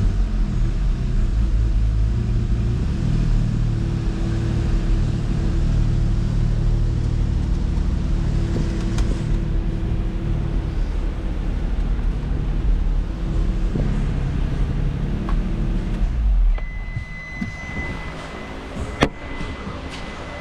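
2008 Nissan 350Z's 3.5-litre VQ35HR V6 idling steadily, then shut off about 16 seconds in. After shutdown a steady high-pitched tone sounds and there is a single sharp click near the end.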